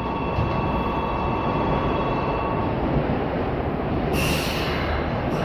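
Electric commuter train running sound: a steady rumble with a high, steady whine over it for the first couple of seconds, then a short hiss of air about four seconds in.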